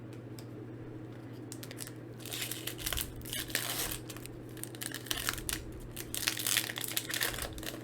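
Foil Pokémon booster pack wrapper crinkling and tearing as it is handled and opened, irregular crackly rustles starting about two seconds in, over a steady low hum.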